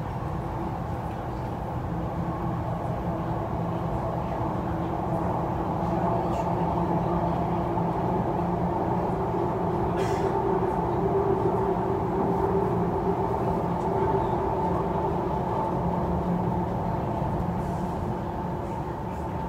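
MTR East Rail Line R-train electric multiple unit running. Its steady drone carries several held tones over the rolling noise and swells slightly in the middle before easing off.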